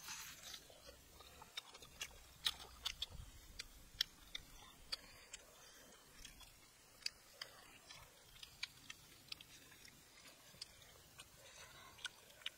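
Close-up eating sounds: chewing and biting into grilled food, heard as irregular crisp clicks and small crunches.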